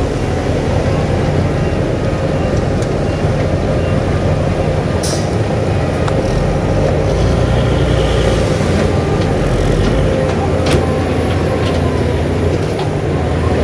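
Heavy earthmoving machinery's diesel engine running steadily under work, with two brief sharp metallic sounds about five and eleven seconds in.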